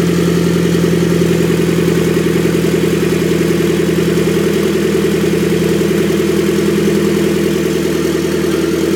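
Turbocharged Nissan SR20 four-cylinder engine idling steadily after a cold start.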